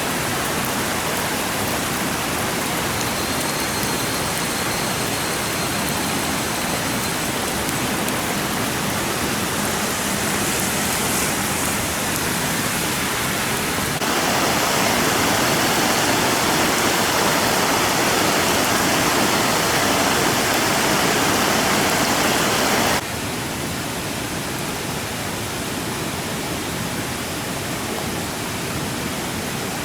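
Steady, even rushing noise with no voices. It gets louder about fourteen seconds in and drops suddenly about twenty-three seconds in.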